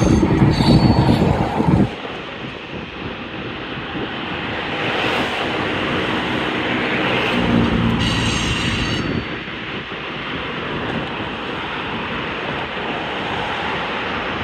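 Freight train rolling through a rail yard, a steady rumble and rattle of wheels on rails, with a brief high-pitched wheel squeal about eight seconds in. Wind buffets the microphone at the start and stops suddenly about two seconds in.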